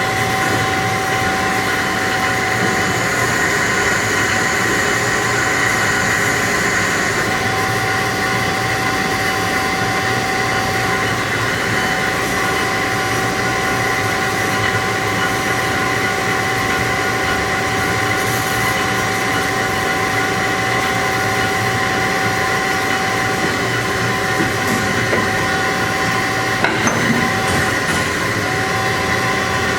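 HEM VT125HA-1 vertical tilt-frame band saw running: a steady mechanical drone with a high, steady whine on top.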